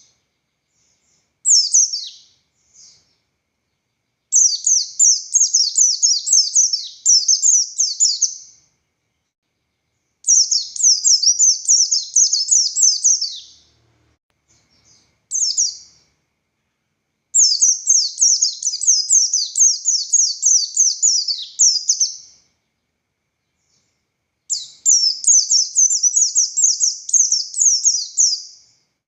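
Buxtoni white-eye (pleci, Zosterops palpebrosus buxtoni) singing in fast, high-pitched bouts of rapid down-slurred notes. There are four long bouts of about four seconds each, separated by short pauses, and a couple of brief single phrases between them.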